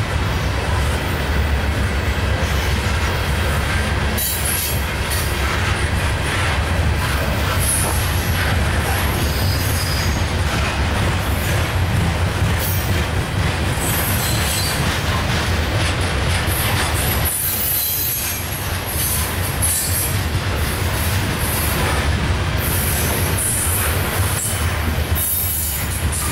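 Coal hopper and gondola cars of a freight train rolling past: a steady deep rumble of steel wheels on rail, with short high-pitched wheel squeals now and then.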